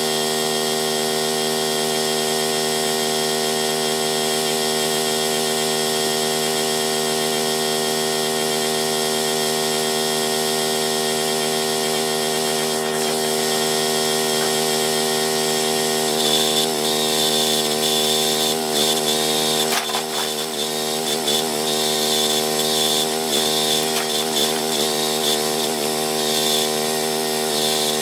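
Small gasoline engine of the towed backhoe running at a steady speed. About halfway through, its note starts to waver and rise and fall unevenly, with a higher whine added, as the engine comes under changing load.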